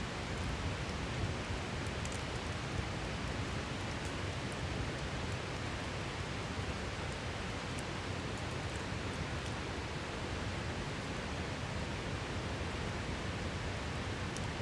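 Steady rush of flowing river water, with a few faint, scattered crackles from a wood campfire.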